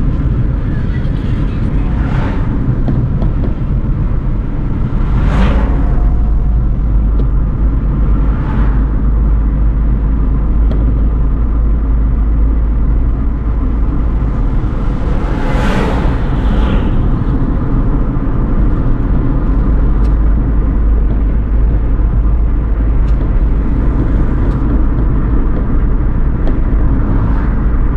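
Steady low road-and-engine rumble of a car driving along a highway. Other vehicles pass with brief swelling whooshes about five times, the loudest about halfway through.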